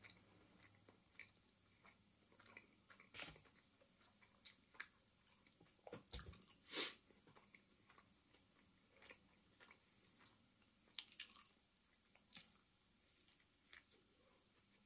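Faint chewing and biting on a mouthful of food, with scattered soft mouth clicks and smacks. The loudest bite comes a little before seven seconds in.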